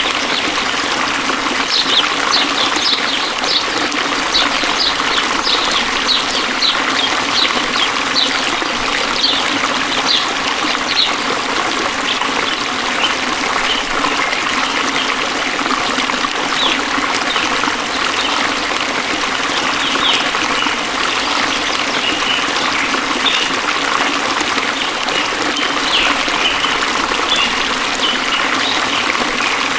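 Forest stream water flowing and trickling steadily, with many short high chirps over it through the first third and again in the last third.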